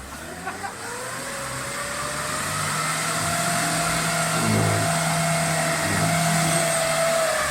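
Off-road vehicle's engine revving up over about three seconds and held at high revs, with a steady high whine, then beginning to ease off at the very end.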